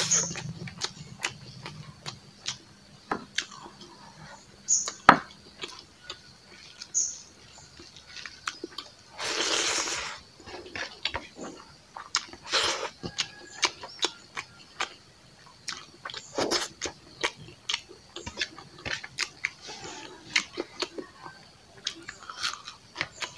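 Close-up eating sounds of a man eating rice and pork curry by hand: wet chewing, lip smacks and many small mouth clicks, with a few longer breathy hisses, the longest around nine to ten seconds in.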